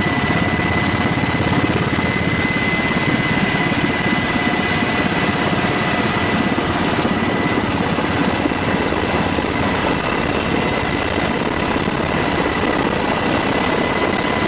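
Aircraft turbine engine running steadily: a constant high whine over a broad rushing rumble.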